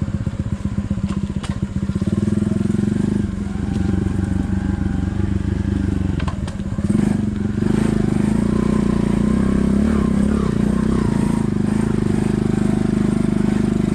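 Pit bike engine running while being ridden along a dirt track, its pitch rising and falling with the throttle. It drops back briefly about three seconds in and again about six seconds in, then runs steadily at higher revs.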